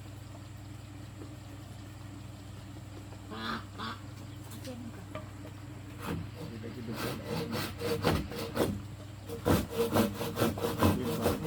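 Saw cutting bamboo by hand: quick back-and-forth strokes start about halfway through and grow louder near the end, over a steady low hum.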